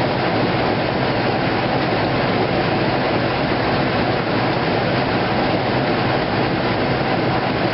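2008 Kenmore top-load washing machine running loud and steady late in its heavy duty cycle, the drum and cabinet giving a continuous rumble with a rattle from the machine shaking.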